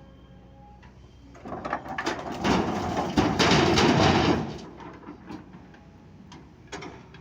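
Loose stone poured into a steel tipper truck body: a loud, rattling rush of rock for about three seconds, starting about a second and a half in, over a low steady diesel hum. A few single stones clatter afterwards.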